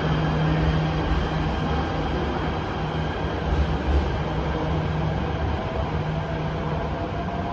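MRT Jakarta electric train pulling away along the elevated platform, a steady running rumble with a low hum that comes and goes, fading slightly as it moves off.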